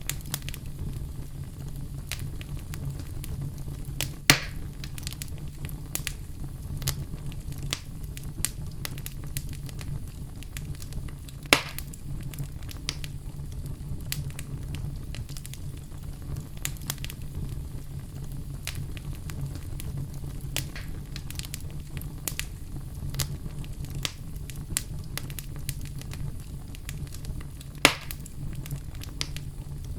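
Wood fire in a fireplace burning steadily: a low, even rumble of flames with continual small crackles and three sharp, loud pops from the logs, about four, eleven and twenty-eight seconds in.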